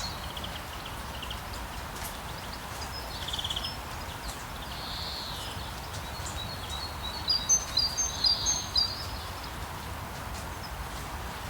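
Steady hiss of rain in a forest, with birds calling over it: a few short buzzy trills in the first seconds and again around the middle, then a quick flurry of high chirps, the loudest moment, a little past halfway.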